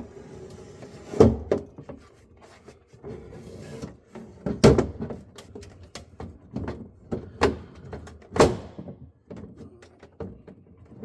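Refrigerator parts being handled and fitted back into place: a series of separate knocks and clatters with lighter clicks between them, the loudest about one, four and a half and eight and a half seconds in.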